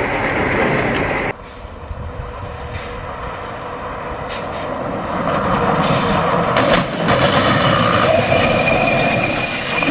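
Vehicle running noise, cut off abruptly about a second in, then building up again, with a few short knocks past the middle.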